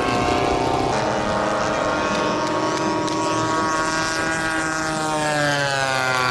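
Engine of a giant-scale radio-control model airplane running in flight, a steady propeller buzz whose pitch rises near the end.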